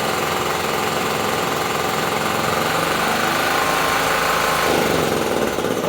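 Small two-stroke brush cutter engine running steadily after repair, its pitch rising and falling a little between about three and five seconds in.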